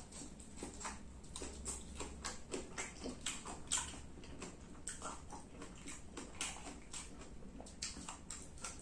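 Close-up eating sounds of a person chewing stir-fried water spinach with the mouth open: irregular wet clicks and lip smacks, several a second.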